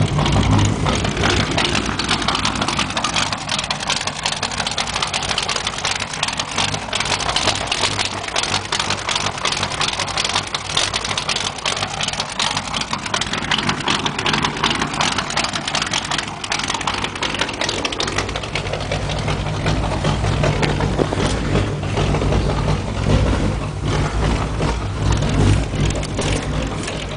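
Straight-piped 350 small-block V8 with headers and a big Comp cam, idling steadily while it warms up from a cold start, with a lumpy, choppy exhaust note. The deep low part of the note is weaker for a stretch in the middle and then comes back strong.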